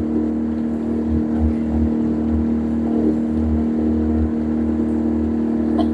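Boat engine running steadily, a constant hum, with a low rumble underneath that swells and fades.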